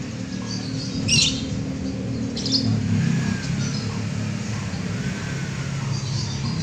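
Birds chirping in short bursts, twice clearly in the first few seconds, over a steady low hum.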